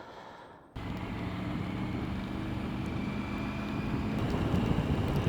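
Triumph Tiger 900 GT Pro's three-cylinder engine running at a steady pitch under way, with wind and road noise. It cuts in abruptly about a second in, after a faint quiet stretch, and slowly grows louder.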